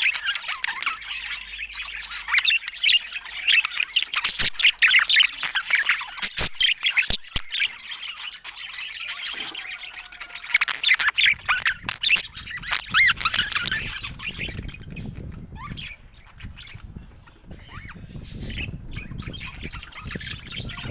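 Budgerigars chattering and squawking, a dense run of quick calls that thins out after about fourteen seconds. A low rumbling noise runs under the calls near the end, and there are a few sharp clicks around the middle.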